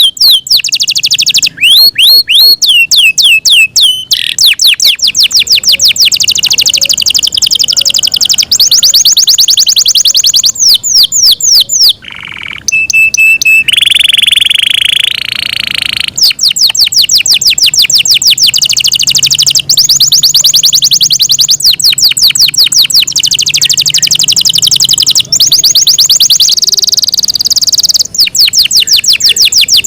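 Yorkshire canary singing a long, loud song of fast high trills, one run after another. About twelve seconds in there is a brief break, then a held rolling passage of two or three seconds before the quick trills resume.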